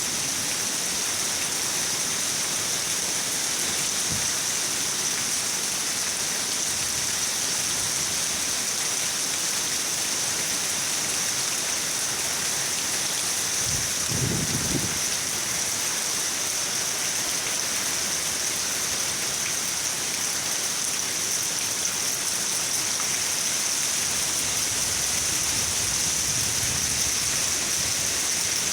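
Steady, dense rain hiss, even throughout, with a brief low rumble about halfway through.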